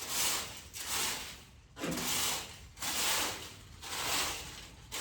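A rake scraping and dragging manure and bedding across a barn floor in steady strokes, about one a second.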